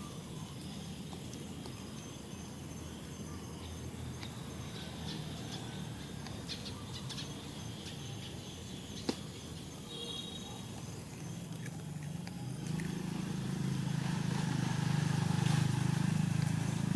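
Outdoor ambience: a steady low rumble that grows louder in the last few seconds, with scattered sharp clicks and brief high bird-like chirps about two-thirds of the way through.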